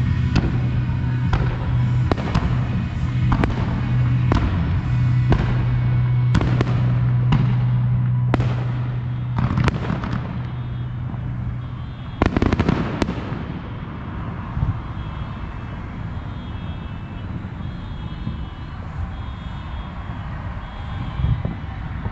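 Aerial firework shells bursting about once a second over a steady low hum. The show ends with a dense, loud cluster of bursts about twelve seconds in. After that the bursts stop and only a lower steady background noise remains.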